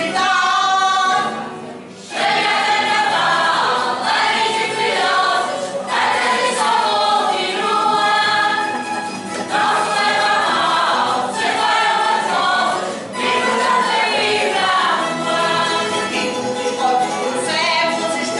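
A group of voices singing a song together in chorus, with short breaks between phrases about two seconds in and again about thirteen seconds in.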